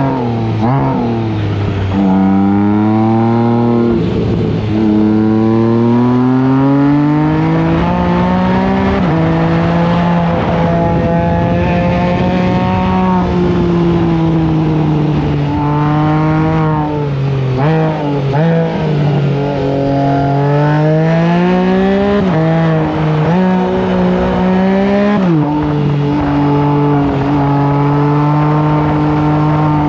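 Can-Am Spyder F3-S's three-cylinder engine under hard acceleration, its pitch climbing through each gear and dropping sharply at every upshift, several times over, with wind and road noise underneath.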